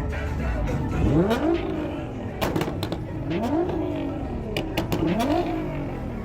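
A car engine revved in short blips, three times, the pitch climbing and dropping back each time, with a few sharp cracks in between.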